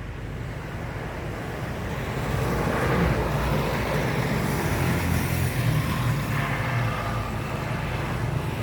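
Motor vehicle engine and road noise, swelling over the first three seconds and then holding steady.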